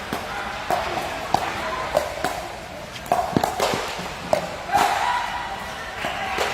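A ball struck back and forth by rackets or paddles in a doubles rally: a string of sharp hits, about every half second at first, over background voices.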